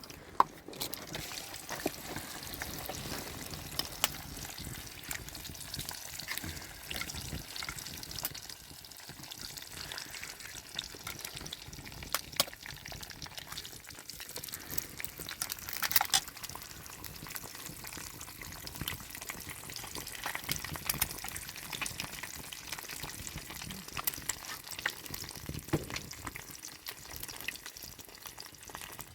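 Food sizzling and frying in a pan, a steady hiss with many scattered crackles and small clicks.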